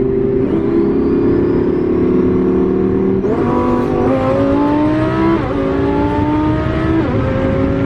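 Twin-turbo V10 of a Lamborghini Huracán Performante under hard acceleration. It holds a steady pitch for about three seconds, then climbs through the gears, its pitch rising and dropping back at quick upshifts about four, five and a half, and seven seconds in.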